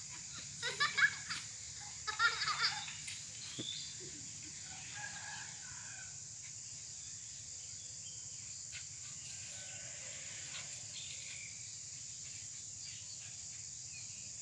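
Chickens calling in two short loud bursts in the first three seconds, then fainter calls, over a steady high-pitched hiss.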